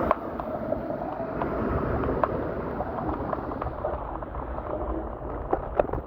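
Rumbling wind and road noise while riding an electric scooter, with scattered sharp clicks and knocks, more of them near the end.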